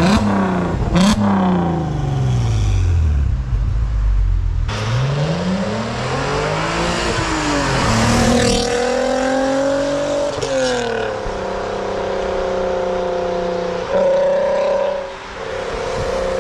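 Volkswagen Golf's engine revving and letting the revs fall away, then pulling away and accelerating, with the pitch climbing and breaking at gear changes, before settling to a steady cruise.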